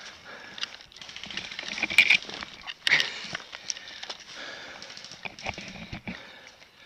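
Footsteps crunching and rustling through dry leaves and brush, uneven like someone moving over rough ground, with two sharp cracks about two and three seconds in.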